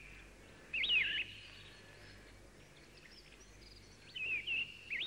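Birds calling: short, sweeping whistled calls, one burst about a second in and a few more near the end, over a faint steady background hiss.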